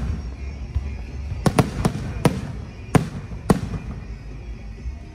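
Aerial firework shells bursting high overhead: about six sharp bangs in quick succession in the first half, over a steady low rumble.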